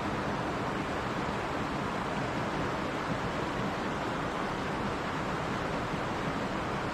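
Mountain stream rushing and splashing over rocks in a steady, unbroken wash.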